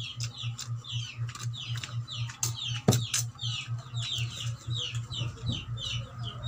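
Bird chirping in a fast, even run of high, falling chirps, about four a second, with a low hum pulsing in step. Two sharp clicks come about two and a half and three seconds in.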